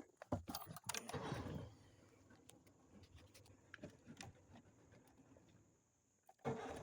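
Scattered knocks and taps, busiest in the first second and a half, then faint and sparse.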